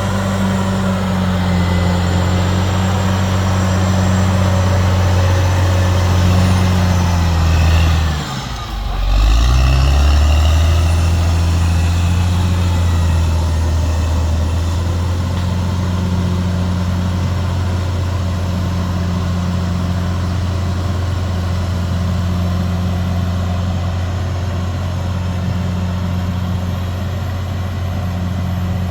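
CAT D6R XL bulldozer's diesel engine running steadily under work. About eight seconds in, the engine speed dips sharply for a moment, then climbs back and runs on steady.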